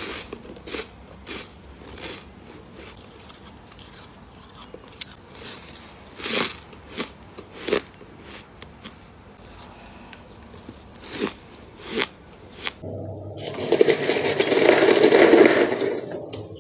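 Freezer frost being bitten and chewed: scattered soft crunches at first, then from about thirteen seconds in a louder, dense stretch of crunching.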